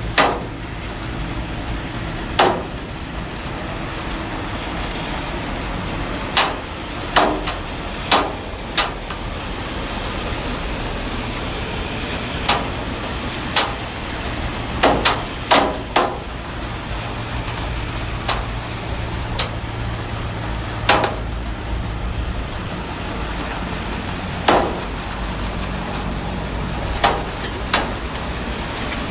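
Heavy rain falling as a steady hiss, with irregular sharp knocks, about one every one to two seconds, from large drops striking a hard surface.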